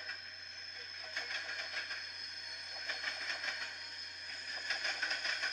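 Train running noise: a steady low rumble with irregular clattering and hiss, between horn blasts.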